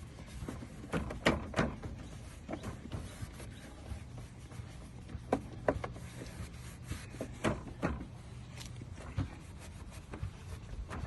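A plastic headlight lens being buffed by hand with a cloth after polishing compound, the cloth rubbing over the lens with scattered light knocks and clicks.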